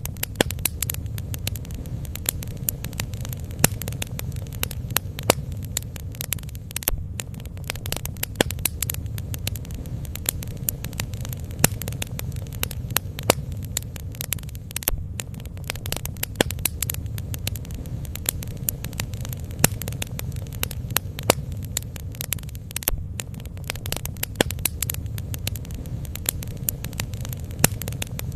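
Bonfire burning: a steady low rumble with frequent sharp crackles and pops scattered irregularly throughout.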